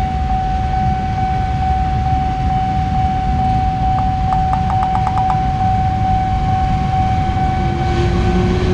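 Low, steady rumble of a CC206 diesel-electric locomotive and its train going by, with a steady high tone throughout. Partway through comes a quick run of about seven clicks.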